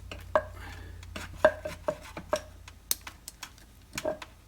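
Irregular sharp metallic clicks and clanks, each with a short ring, from a damaged KTM 690 Duke LC4 single-cylinder engine being turned over by hand. It doesn't sound very good: the crank is locked.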